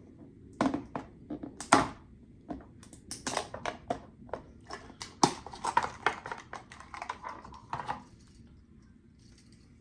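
Irregular crinkling and clicking of plastic packaging being handled and opened around a hard-plastic fishing lure, dying away about eight seconds in.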